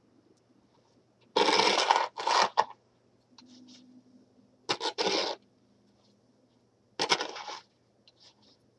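Snow shovel scraping through snow three times, each stroke a short rasping scrape about two to three seconds apart.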